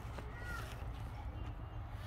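A short bird call, a brief chirp that bends in pitch, about half a second in, over a low steady rumble.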